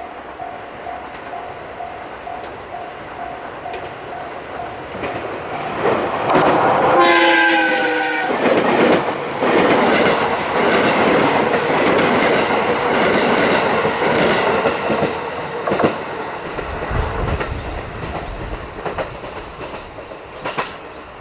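Level-crossing bell ringing in steady pulses, then a 221 series electric train sounds its horn for about two seconds, about six seconds in, with the pitch dipping at the end. The train then passes with wheels clattering over the rail joints, and the noise fades over the last few seconds.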